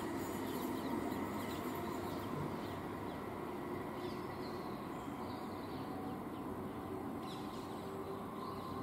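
The fading rumble of a departing Class 465 Networker electric train as it pulls away out of earshot, with faint bird chirps scattered through, a cluster a few seconds in and more near the end.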